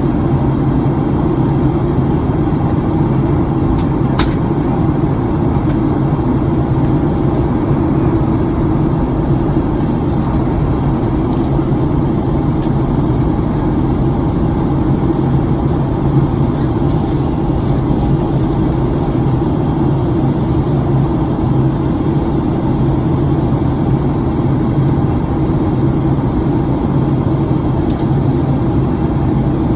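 Steady cabin drone of a Boeing 737-900ER in flight: its CFM56-7B engines and the airflow over the fuselage, heard from inside the cabin, with a few faint clicks.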